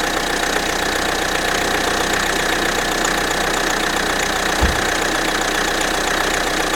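Renault 1.6 turbo diesel four-cylinder engine idling steadily with a diesel clatter, less than a minute after a cold start. A single low thud comes about four and a half seconds in.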